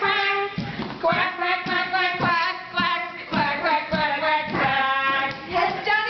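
A group of women and young children singing a children's song together, with hand claps keeping the beat.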